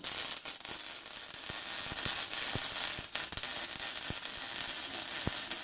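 Electric arc welder sizzling and crackling steadily, with scattered sharp pops, as it lays a weld on exhaust pipe.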